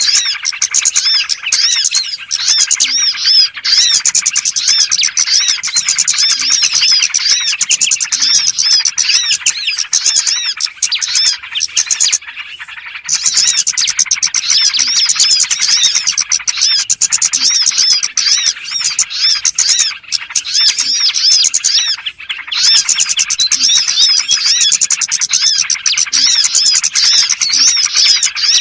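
Many small birds twittering densely together, a rapid, unbroken stream of short arched chirps, with a brief lull about twelve seconds in. It is a bird-trapping lure call (suara pikat) for small birds.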